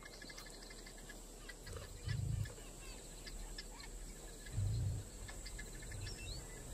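Wild bush ambience: birds chirping and calling with short rising whistles, over a faint insect hum, and two short low thuds about two and four and a half seconds in.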